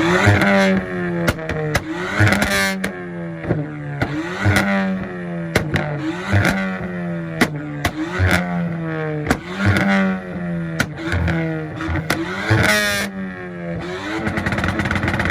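Ford Fiesta engine revving in repeated bursts, about one every two seconds, on a two-step launch limiter, with sharp pops and crackles from the exhaust throughout.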